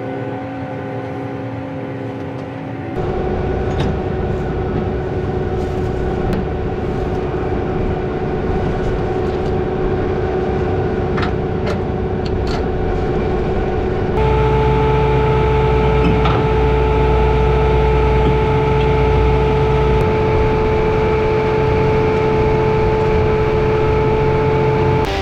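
Farm vehicle engine running steadily, heard in three stretches that change abruptly about three seconds in and again about halfway through, with a few faint clicks in the middle stretch.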